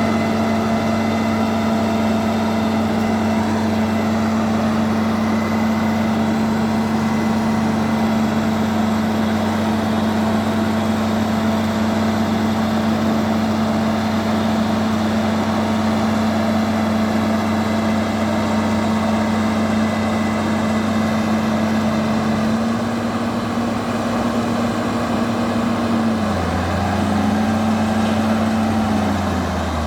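Bulldozer's diesel engine running steadily, with its note dipping and shifting a few times near the end.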